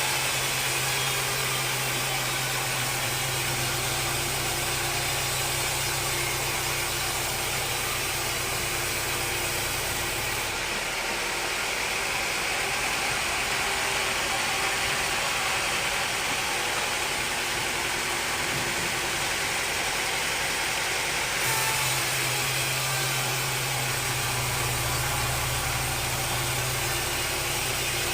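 Sawmill machinery running steadily. A low hum under it drops out about ten seconds in and returns about eleven seconds later.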